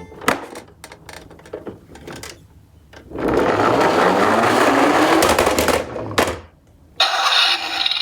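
Toy garbage truck minicar clicking as it is handled, then about a second in a loud plastic whirr as it rolls down a slope, its pitch rising as it speeds up, stopping sharply. Another whirr starts near the end.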